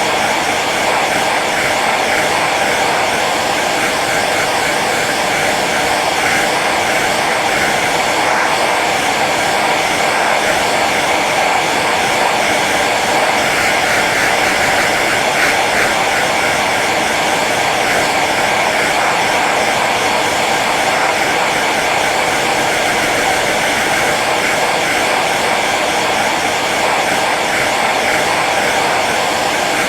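Handheld hair dryer running steadily on its low setting: an even rush of blown air with the fan motor's hum beneath.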